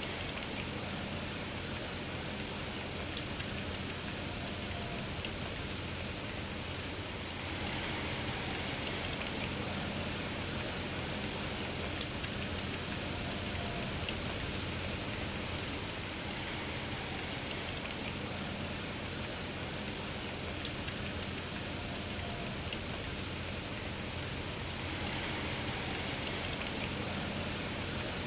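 Steady rain falling, an even hiss with three sharp, louder drops spaced several seconds apart.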